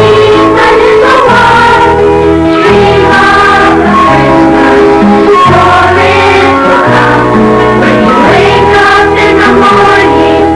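A children's school choir singing a Christmas song in held, melodic lines over an instrumental accompaniment with a steady bass.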